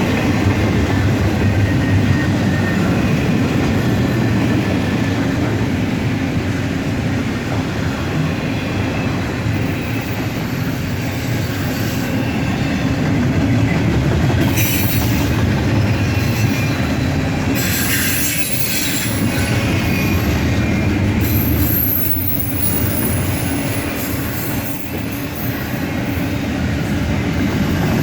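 BNSF intermodal freight train rolling past, a steady loud rumble of wheels on the rails, with high-pitched wheel squeal coming and going several times in the second half.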